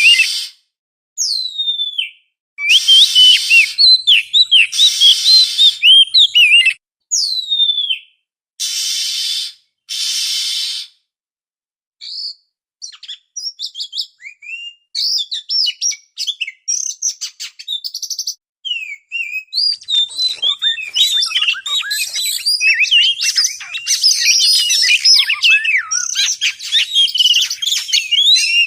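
Oriental magpie-robin (kacer) song: loud, clear whistles and chirps. For the first ten seconds or so the song comes in separate bursts with short gaps. From about halfway in it becomes a dense, fast run of varied chirps and trills.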